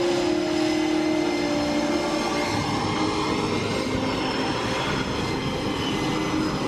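Military aircraft engines running at low power while taxiing: a steady droning whine with several held tones over a rushing noise.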